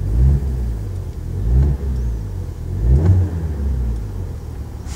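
Audi RS3's turbocharged five-cylinder engine with a Supersprint full exhaust (downpipe, metallic cat, centre and rear sections), revved in three quick blips while parked and falling back toward idle between them, heard from inside the cabin.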